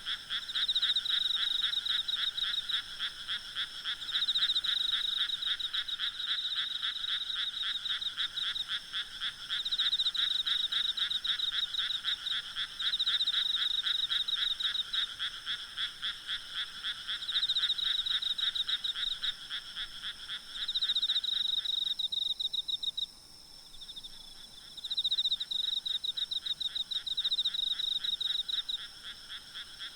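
Night chorus of many frogs calling together: rapid pulsed croaks overlapping in a continuous din that briefly thins about three-quarters of the way through. A faint steady trilling of insects sits above it.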